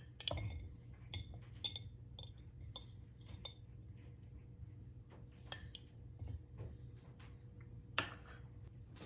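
Light clinks and taps of kitchen utensils against dishes and glass, scattered through, over a faint steady low hum.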